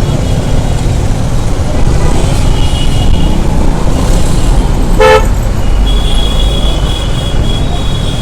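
Road traffic heard from a moving motorcycle: a steady low rumble of wind and engines, with a short, sharp vehicle horn honk about five seconds in. Thin high-pitched tones, also likely horns, come and go.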